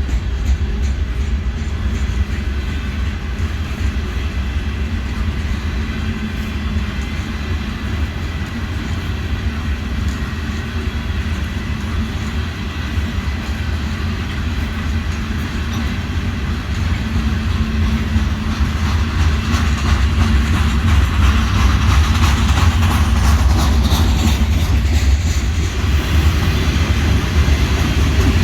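A train rolling past on the rails: a steady low rumble with wheels clattering over the track, growing louder in the last third.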